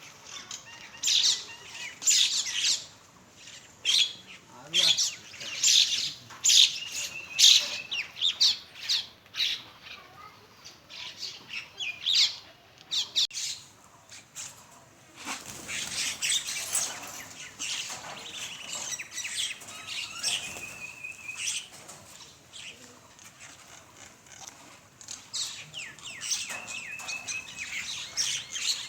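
A flock of mynas calling: harsh squawks and chatter with a few short whistled notes, loudest in the first ten seconds.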